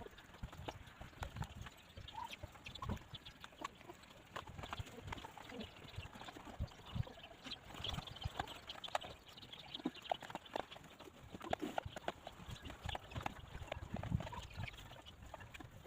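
Free-range chickens pecking at grass and ground: many quick, irregular taps.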